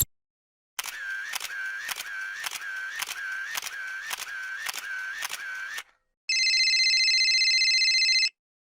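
A camera shutter clicking about ten times in a steady series, roughly two a second. After a short gap comes a steady electronic buzzer tone lasting about two seconds.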